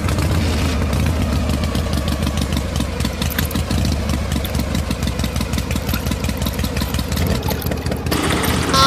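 Small engine of a mini diesel water pump running steadily at an even, fast beat.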